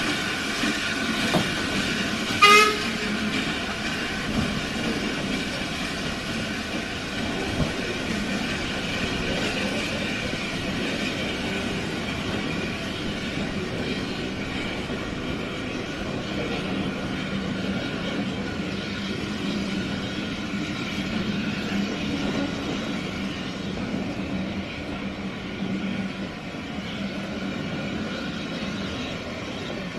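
Heritage train running steadily, with one short toot of its horn or whistle about two and a half seconds in.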